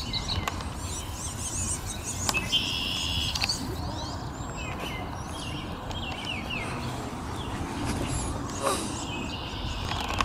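Several birds chirping and calling: short high chirps, quick falling whistles and a brief buzzy trill, over a steady low rumble.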